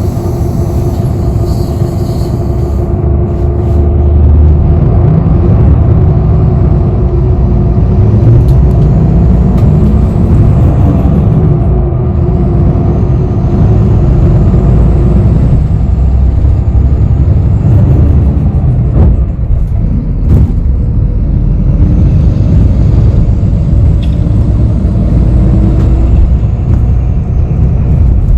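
Inside a moving city bus: steady engine and road rumble. About a third of the way in, a rising whine climbs as the bus speeds up, with a few faint clicks and rattles later.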